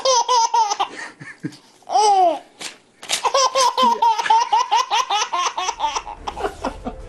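A little girl laughing hard in long runs of rapid, high-pitched giggles, several a second, broken by a short squeal about two seconds in.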